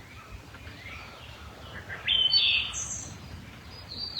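Songbirds singing: faint chirps, then a louder, bright phrase about two seconds in, followed by a few higher, thinner notes.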